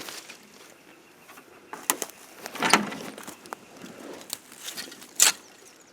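Footsteps crunching through brush and undergrowth: irregular crunches and snaps, with the loudest a little under three seconds in and again about five seconds in.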